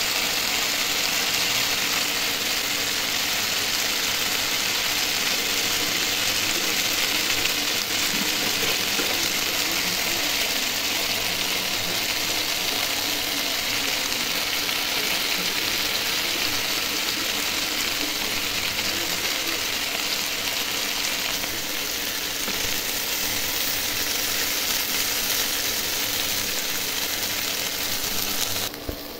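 Potato cubes frying in hot oil in a nonstick pan: a steady, even sizzle.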